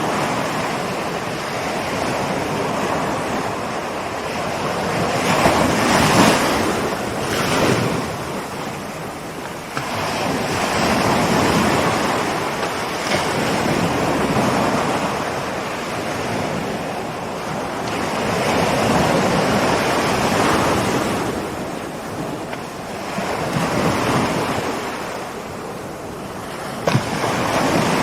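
Ocean waves rolling in and breaking on the shore. The surf swells and ebbs every five to seven seconds, with a short sharp click near the end.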